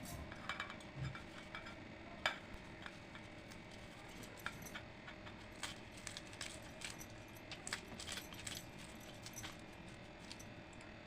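Light, irregular clinks and taps of dishes and eating utensils during a meal, with one sharper clink about two seconds in.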